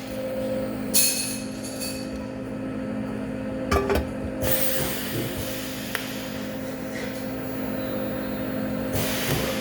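Steady electrical hum of TIG welding equipment, with a hiss that comes and goes and a couple of short knocks.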